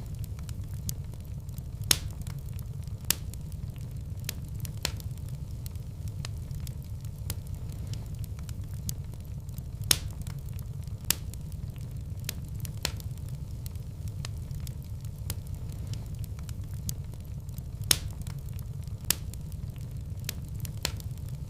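Wood fire burning in a fireplace: a steady low rumble of flames with frequent sharp crackles and a handful of louder pops.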